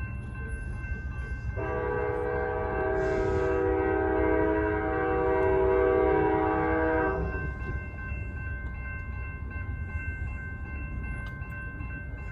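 Amtrak passenger locomotive's air horn sounding one long blast of about five and a half seconds, over the steady low rumble of the arriving train.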